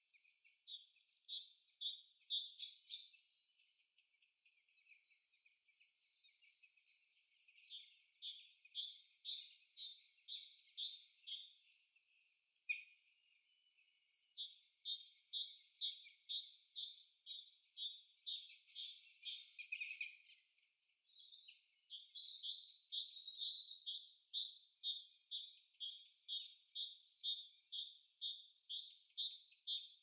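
Bird song: runs of quick repeated high chirps, each run lasting several seconds, with short pauses between runs and some runs opening with a falling note.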